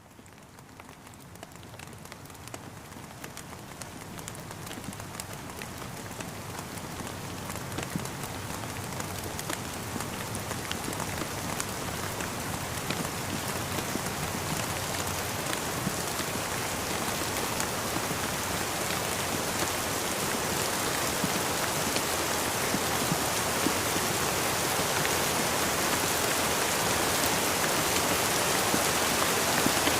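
Steady rainfall, a dense patter of raindrops tapping, fading in and growing gradually louder throughout.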